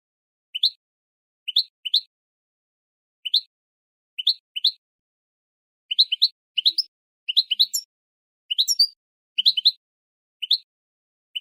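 Goldfinch × linnet hybrid (mule) giving short, rising chirp calls, mostly in pairs, the kind of chirping played to prompt caged birds to sing. The calls are spaced about a second apart at first and come faster in clusters, with some higher notes, from about six seconds in.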